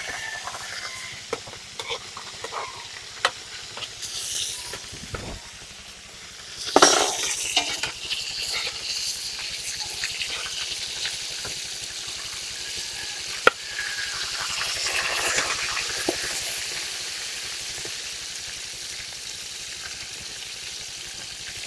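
Food sizzling in a hot wok while a metal spatula stirs it, scraping and clicking against the pan. The hiss is steady, with a louder stir and sizzle about seven seconds in.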